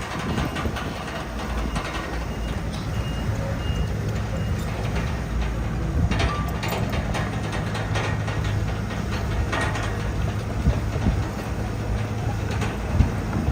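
Heavy diesel earthmoving machinery running steadily, with a few knocks about six and nine and a half seconds in and a faint intermittent beep near the start.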